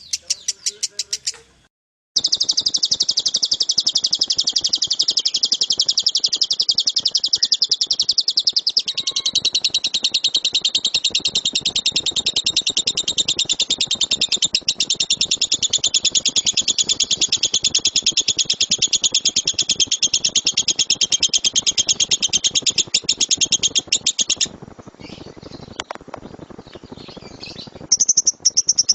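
Lovebird's ngekek: a long, unbroken run of very fast, shrill, chattering notes lasting about twenty seconds, after a brief break about two seconds in. It stops about 24 seconds in, leaving a few scattered chirps and a short burst of chatter near the end.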